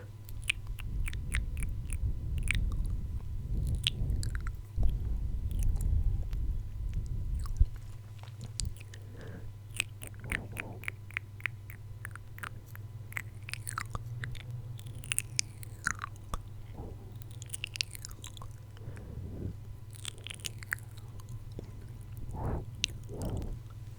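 Close-miked ASMR mouth sounds: many quick, irregular wet clicks and smacks of the lips and tongue. A deep rumble runs under them for the first eight seconds or so.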